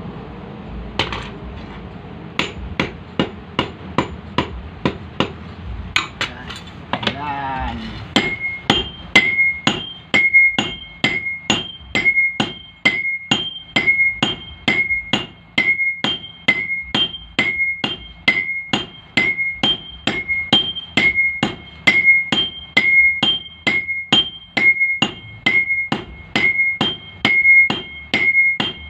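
Blacksmith's hammer striking iron on an anvil in a steady rhythm, about two blows a second. From about eight seconds in, each blow rings with a high metallic ring.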